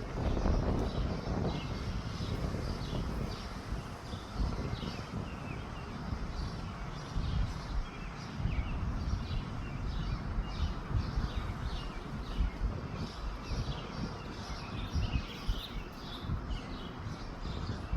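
Wind buffeting the microphone with a low, gusting rumble, while small birds chirp over it again and again.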